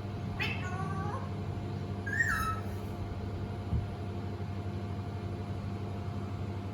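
Indian ringneck parrot giving two short calls, one about half a second in and a falling squawk about two seconds in, over a steady low hum.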